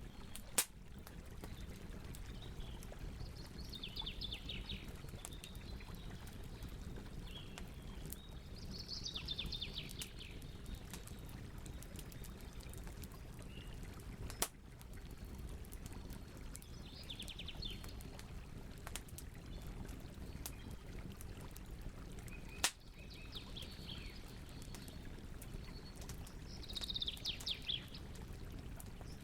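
Wood fire crackling steadily, with three sharp pops standing out, about half a second in, near the middle and about three-quarters through. Over it a bird sings short rapid trilling phrases about five times.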